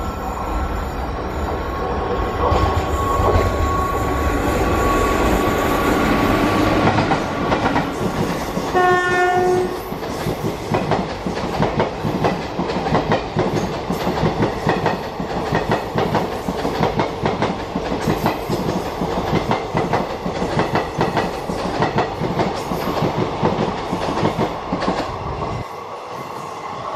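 Express train hauled by a WAP-4 electric locomotive passing close by at speed: a heavy rumble as the locomotive goes past, a single horn blast of about a second, then the rapid rhythmic clickety-clack of coach wheels over the rail joints, which fades as the last coach passes near the end.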